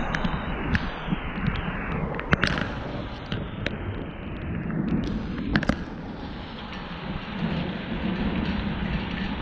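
Storm rain and wind on the microphone, a steady rushing hiss over a low rumble, with many sharp taps of raindrops striking close by.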